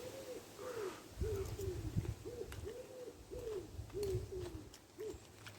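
A man making about ten short, appreciative "mmm" sounds while eating and chewing. Each note rises and falls in pitch, with soft low thuds from the chewing and handling in between.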